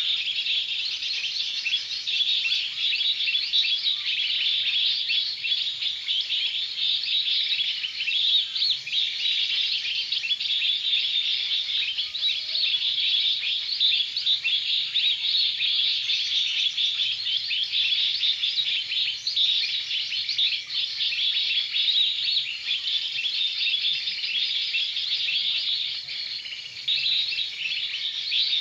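Many small birds chirping and twittering at once in a dense, continuous chorus of rapid high-pitched chirps.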